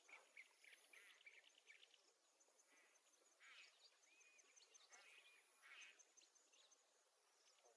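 Very faint birdsong: scattered chirps and short warbling calls over a low hiss.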